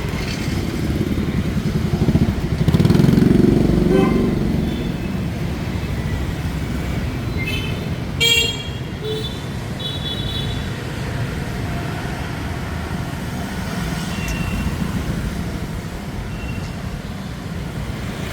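Street traffic of motorbikes and scooters running past steadily, with a louder vehicle passing about three seconds in and horns honking several times around the middle.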